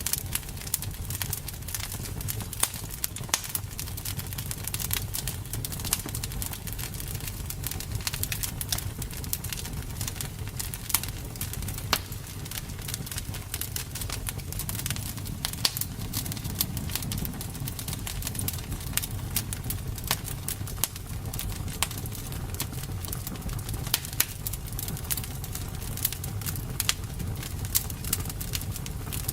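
Campfire burning: irregular crackles and sharp pops of burning wood over a steady low rumble of the flames.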